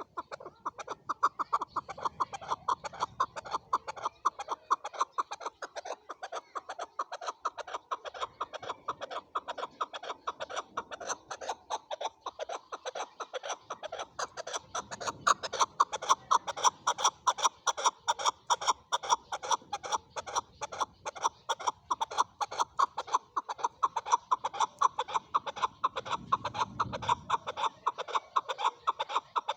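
Male chukar partridge calling, a fast, unbroken run of repeated clucking notes, several a second.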